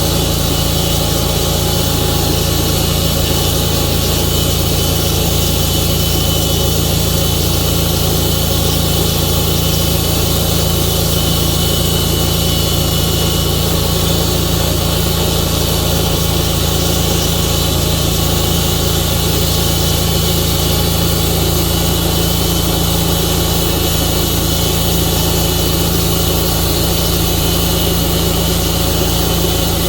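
Tru-Cut sawmill's engine running steadily at an even pitch, with a constant hiss above it.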